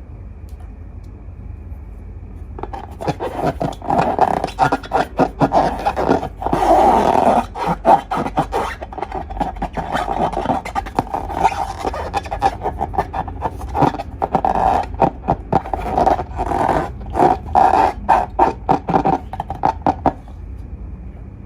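Slime being squished and worked by hand, a dense run of sticky clicks and small pops that starts a few seconds in and stops just before the end.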